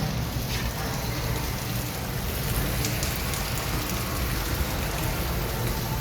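Toyota Fortuner diesel engine running steadily, heard through an aftermarket full stainless-steel exhaust (downpipe, front pipe, centre pipe and rear muffler), with a hissy exhaust note and a low rumble underneath.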